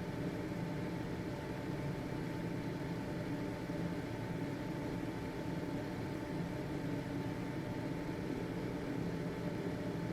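Household ventilation fan running steadily: an even motor-and-airflow hum with a faint steady whine above it.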